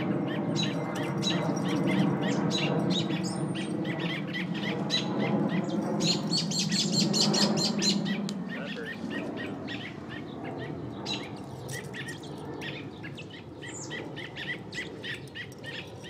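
An injured small bird giving rapid, shrill distress chirps, many a second, that thin out after about halfway. A low rushing noise lies under them in the first half.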